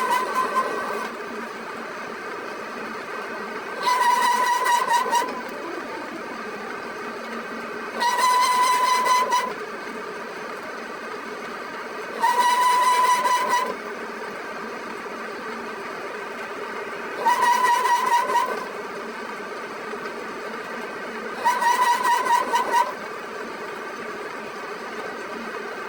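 Metalworking machine running steadily, with a loud pitched squeal of about a second and a half that comes back about every four seconds.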